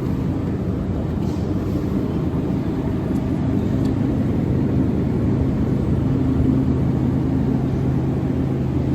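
Steady low engine-like hum with an even drone and no breaks or changes.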